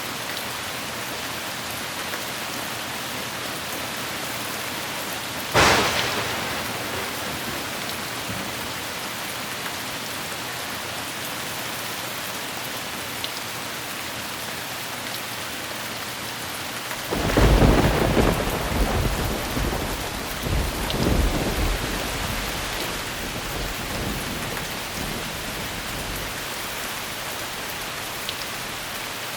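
Steady heavy rain with two thunderclaps: a sharp crack about five seconds in that dies away quickly, and a longer, deep rolling peal starting a little past the middle that rumbles on for several seconds.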